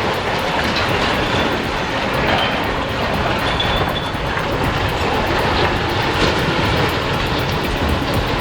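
Heavy demolition machinery running with a steady, loud rumble, with a few faint, brief high squeals around the middle.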